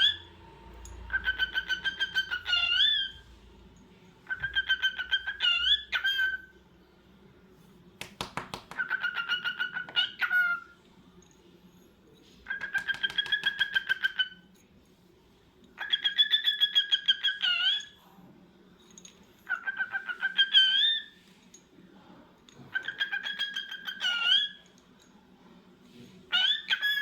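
Cockatiel repeating the same call about eight times, a few seconds apart: each a quick run of rapid pulsed chirps ending in an upward swoop.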